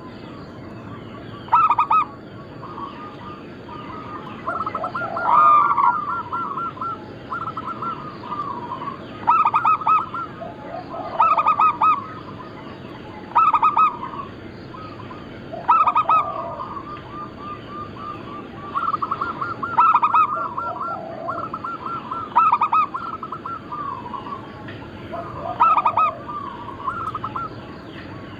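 Zebra doves (perkutut) cooing: short phrases of quick, pulsed cooing notes repeat every two seconds or so, and some phrases overlap as more than one dove calls.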